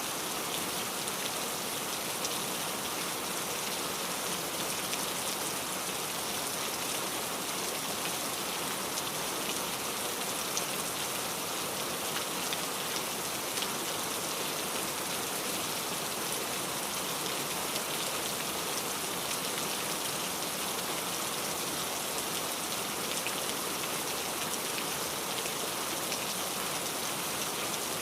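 Steady rain falling, a dense hiss of many small drops striking a surface, with no let-up.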